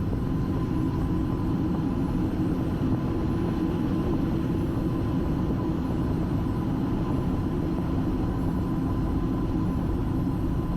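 Steady flight-deck noise of a Boeing 757-200 Freighter on the ground with its engines running at idle, heard inside the cockpit: a low, even rumble with a thin steady whine above it.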